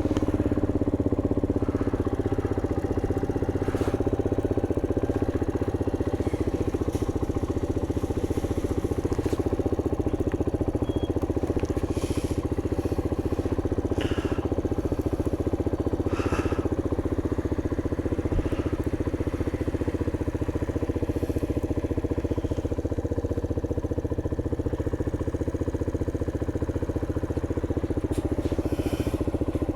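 MGB ATX 125cc adventure motorcycle engine idling steadily.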